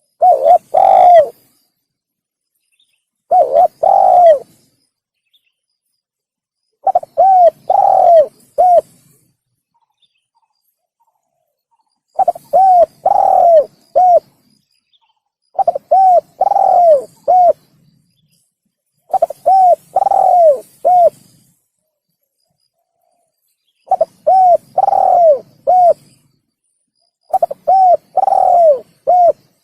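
Spotted dove (tekukur) cooing: eight phrases, each a few short coos around one longer drawn-out note, repeated every three to five seconds with silence between. This is a call played as a lure to draw in wild spotted doves.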